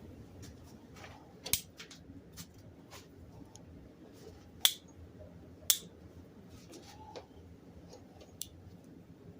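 Sharp clicks and snips, like a cutting hand tool or metal parts being handled, with three loud ones about a second and a half in, near the middle and a second later, among fainter ticks.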